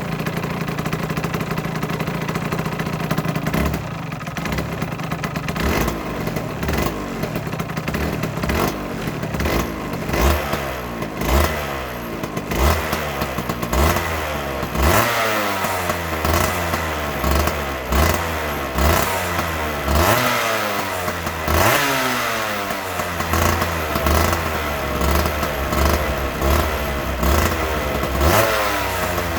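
Aprilia RS125's 125 cc single-cylinder two-stroke engine idling, then revved in quick repeated throttle blips, its pitch rising and falling about once a second.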